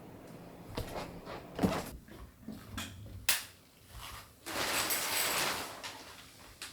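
Several sharp knocks and clicks of objects being handled, the loudest about a second and a half in, then a hissing rush lasting about a second and a half.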